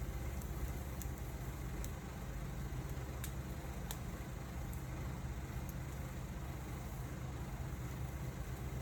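Wood fire burning, with a steady low rumble and a few sharp crackles scattered through it.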